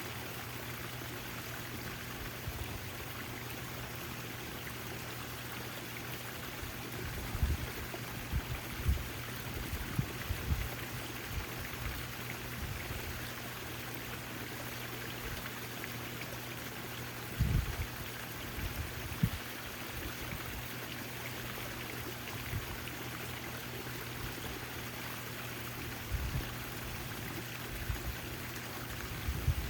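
Backyard fountain water splashing and trickling steadily, with a steady low hum underneath and a few brief low bumps now and then.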